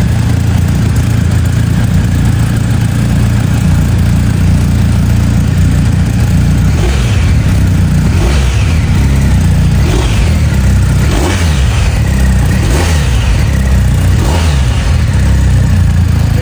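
BMW R 1250 GS Adventure's 1250 cc horizontally opposed twin idling, then blipped about six times from around seven seconds in, each rev rising and falling back to idle.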